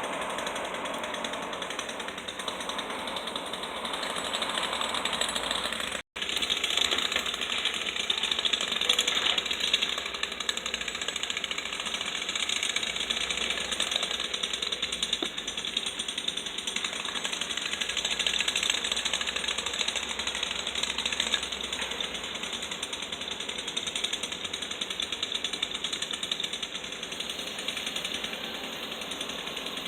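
Demolition breaker hammering rapidly and continuously, a dense jackhammer rattle that cuts out for a moment about six seconds in.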